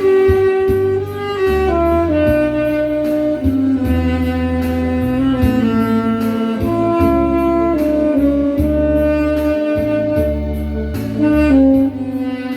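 Tenor saxophone playing a slow melody in long held notes, over a backing track with a pulsing bass and a steady beat.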